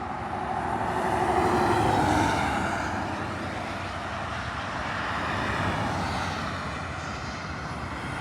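Vehicles driving past on a road: tyre and engine noise swells as one passes about two seconds in, fades, and swells more gently again around six seconds in as another goes by.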